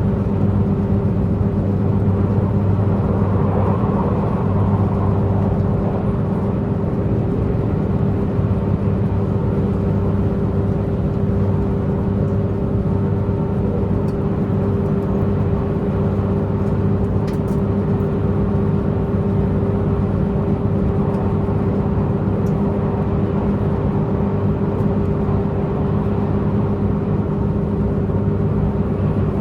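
Diesel multiple-unit train's diesel engine running steadily while the train is under way, heard from inside the passenger car as a constant droning hum with a held mid-pitched tone over it.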